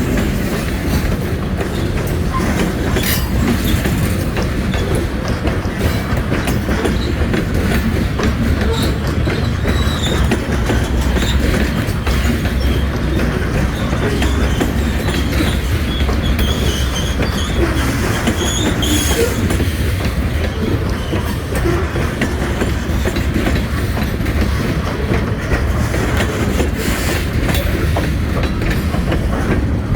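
Freight train rolling past, a steady low rumble with steel wheels clicking over the rail joints. A faint wheel squeal comes in around the middle.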